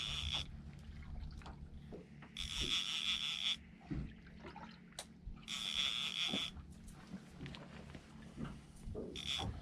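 Fishing reel buzzing in short bursts of about a second, roughly every three seconds, as line is worked on a hooked fish, over a low steady hum.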